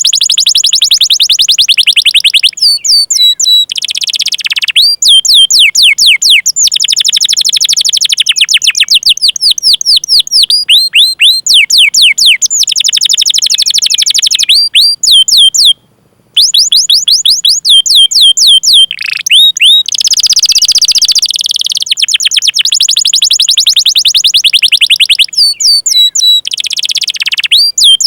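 Domestic canary singing a long, fast song: trills of rapidly repeated downward-sweeping chirps alternate with slower runs of separate 'cuit cuit' calls and rolling passages, with a brief break about halfway through.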